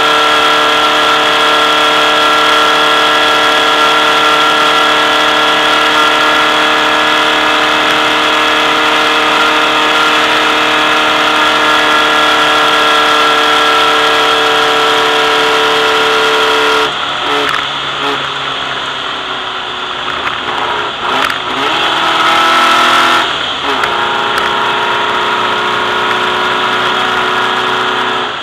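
A VW race car's engine, recorded on board, is held at a steady high pitch at full throttle for about seventeen seconds. Then the note drops suddenly as the driver lifts off. Several rises and falls in pitch follow through the gear changes, before the engine settles to a lower steady pitch near the end.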